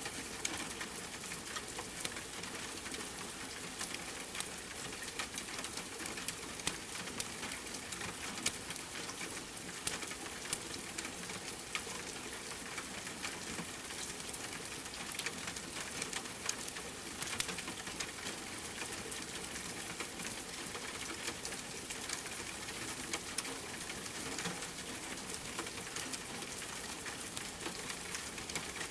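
Steady rain with a crackling fireplace: an even hiss dotted with many small, sharp crackles and ticks.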